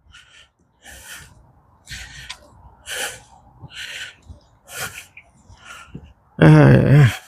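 Footsteps on an outdoor path, short scuffing steps about one a second. Near the end, a loud wordless vocal sound from the walker.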